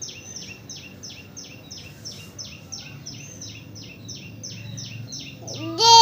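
A bird chirping over and over, each chirp a quick falling note, about three a second. Near the end a person's loud, drawn-out call rises and is held for about a second over the chirping.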